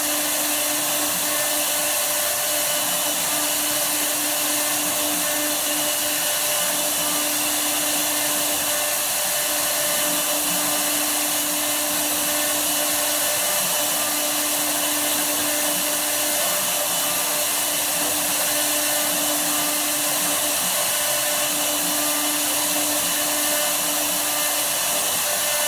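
Woodworking CNC router's spindle running steadily, a constant motor whine over a high hiss that keeps an even level throughout.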